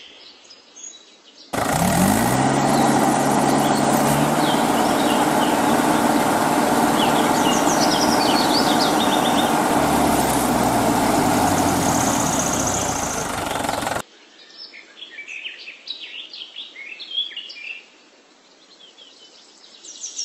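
A motor cuts in suddenly and runs, its pitch climbing as it starts, holding steady and dipping near the end, then cuts off abruptly about two-thirds of the way through. Birds chirp throughout.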